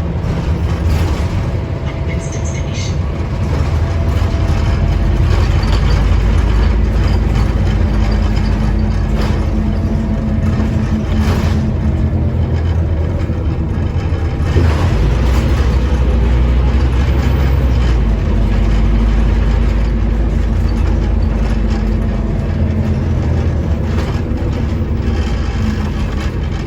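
Scania OmniCity bus on the move: a steady low engine drone with a faint whine that shifts in pitch, and scattered knocks and rattles.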